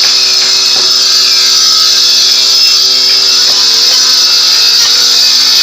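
A power tool's motor running steadily under load, a constant hum with a loud high hiss and no change in speed.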